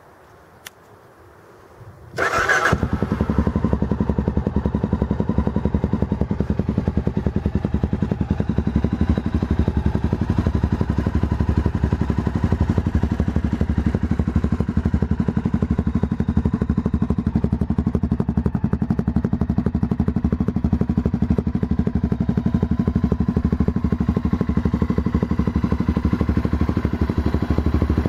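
Honda FMX 650's single-cylinder four-stroke engine breathing through a LeoVince X3 aftermarket silencer, started about two seconds in and settling straight into a steady idle.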